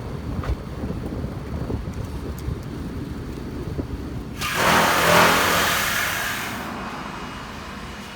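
Exhaust of a Chevrolet Trailblazer's 5.3-litre V8 running with a low rumble. About four and a half seconds in, a loud rushing surge rises sharply, peaks, and fades away over about two seconds.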